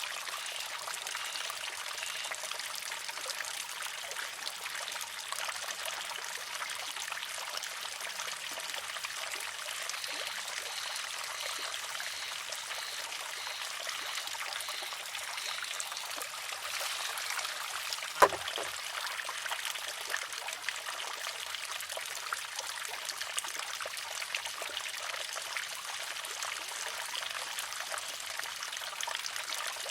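Water trickling and splashing steadily from a wooden shishi-odoshi's water feed, with one sharp wooden clack a little past halfway through as the water-filled arm tips, empties and strikes its rock.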